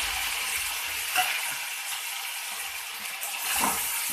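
Tomatoes sizzling in hot oil with cumin in a kadhai, just after going in, with a spatula scraping the pan about a second in and again near the end.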